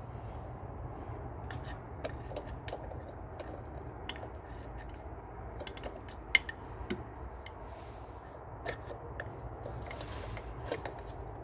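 Hand tools working on a spark plug in a car engine: irregular metal clicks and light scrapes, the sharpest about six seconds in.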